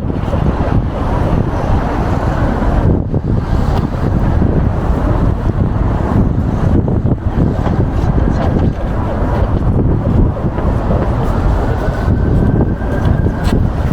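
Wind buffeting the microphone in a loud, unsteady low rumble, over the noise of passing city traffic.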